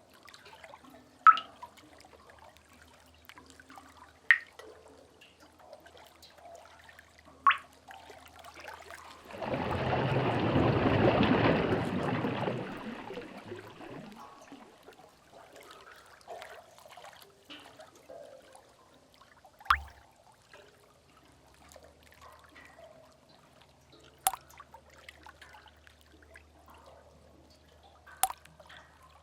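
Sea-cave ambience: single water drips falling at irregular intervals, about six of them, a few seconds apart. About ten seconds in, a wave surges and splashes into the cave, loudest for a couple of seconds and then washing away over about four seconds.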